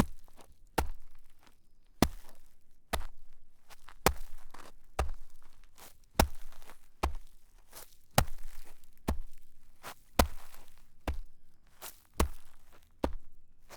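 Footsteps walking through snow at a steady pace of about one step a second.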